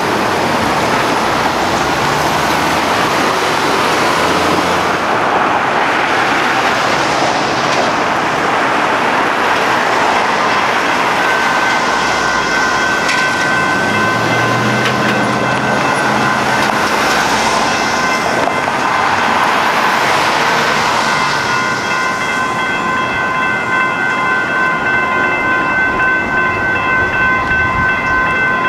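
A train passing over a street grade crossing: a loud rushing rumble of wheels on rail with some clatter. About 11 seconds in, a steady ringing tone of the crossing's warning bells emerges, growing fuller and more pulsing near the end as the rumble eases.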